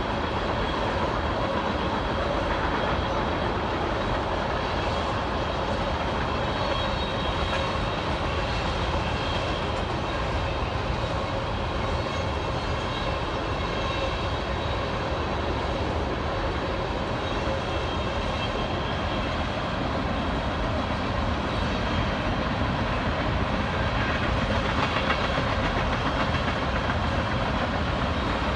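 Empty oil tank cars of a freight train rolling past, steel wheels running on the rails in a steady, continuous rumble.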